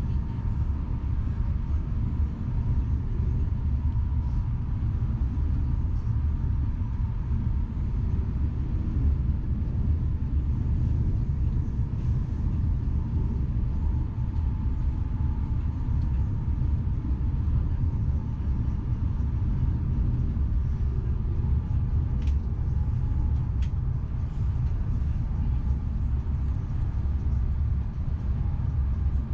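Southeastern Class 395 Javelin electric train running along the line: a steady low rumble with a faint steady whine above it, and two faint clicks about 22 seconds in.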